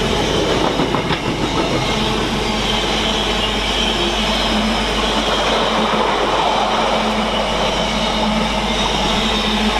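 Wagons of a Freightliner freight train rolling past on the main line, a steady, continuous noise of wheels on rail.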